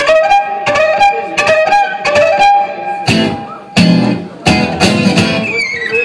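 Guitar playing a fast instrumental piece over a backing track: quick runs of plucked notes broken by loud, sharp percussive hits.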